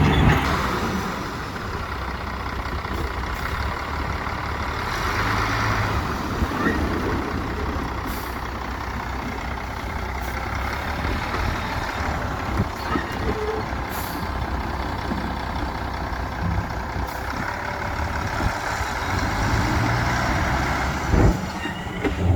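Heavy diesel construction machinery working, dump truck and bulldozer engines running with a steady rumble. Brief hisses come about eight and fourteen seconds in, and a sharp knock near the end.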